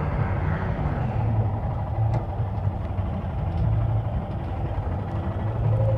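Motorcycle engine running steadily, a low rumble that swells and eases slightly.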